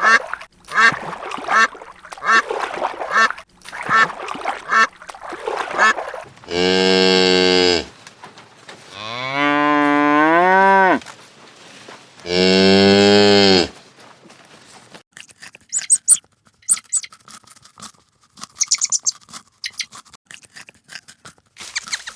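Ducks quacking in quick repeated calls for the first six seconds, then a cow mooing three times: two steady moos with a longer one between them that rises in pitch. Faint scattered clicks follow.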